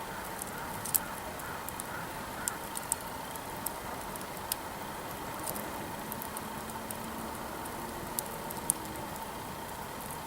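Wood campfire crackling, with sharp irregular pops and snaps from the burning firewood over a steady hiss.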